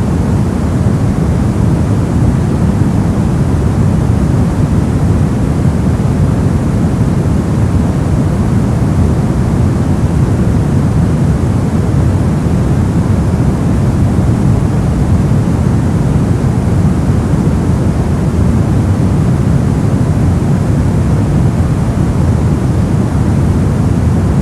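Steady, unchanging noise-masking sound, billed as white noise but weighted heavily toward the low end, so it comes across as a deep, dull hiss rather than a bright one.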